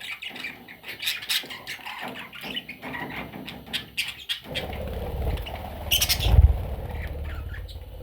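Budgerigars chirping and chattering in quick short calls. About halfway through, a low close rumble comes in, with one sharp loud burst just past the middle.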